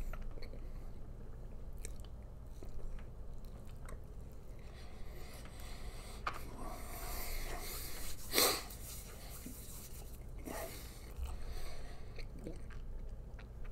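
A man chewing a big mouthful of Double Whopper burger, with faint, irregular wet chewing and biting noises and a brief louder noise about eight seconds in.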